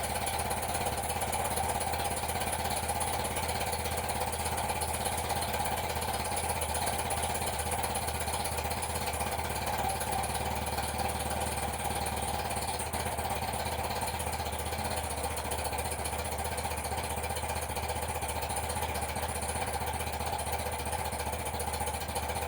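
1982 BMW R100RS's air-cooled flat-twin boxer engine idling steadily while still cold from a cold start, with no revving.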